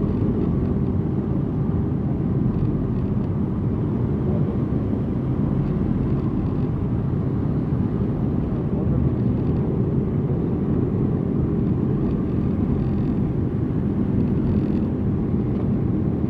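Motorcycles riding in a parade, heard from a rider's bike: the Suzuki GSX-R 1000's inline-four and the surrounding bikes make a steady low rumble with no breaks or revs standing out.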